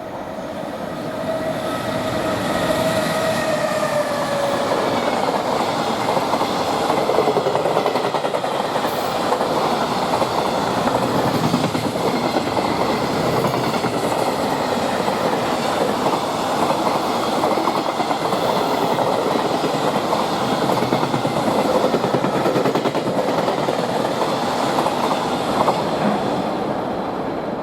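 Freight train passing at speed behind an electric locomotive. A whine falls in pitch over the first few seconds as the locomotive goes by, then the wagons' wheels give a long, steady rumble and clatter on the rails.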